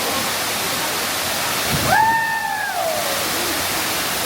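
Waterfall rushing steadily. About two seconds in, a short pitched call rises, holds and falls away over just under a second.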